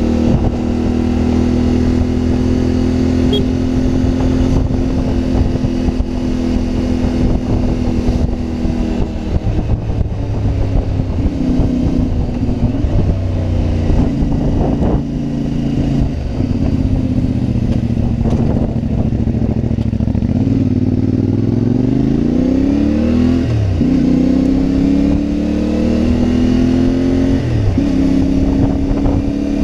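CFMoto 450MT motorcycle's parallel-twin engine running under way. It holds a steady pitch at first, then the revs change, and near the end it climbs twice in rising sweeps, each cut off by a sudden drop as it shifts up a gear.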